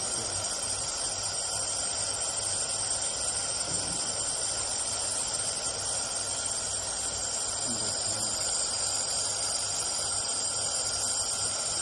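Steady machine hum and hiss with several held tones, unchanging throughout, with faint voices far in the background.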